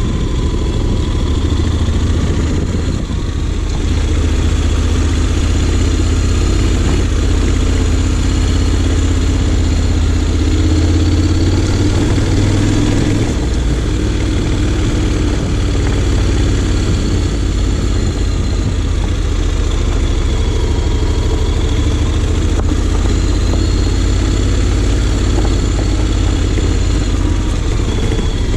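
Honda X-ADV 750's parallel-twin engine running steadily at low revs while being ridden, its engine speed rising and falling gently.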